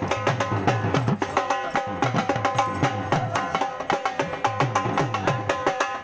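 Dhol drumming in a fast, steady beat, its bass strokes dropping slightly in pitch, with a melody instrument playing over the drums.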